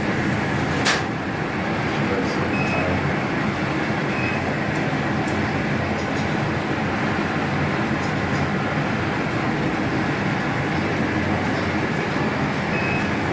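Tower of the Americas elevator car descending: a steady rushing hum and rumble, with a sharp click about a second in and a few faint, short high beeps.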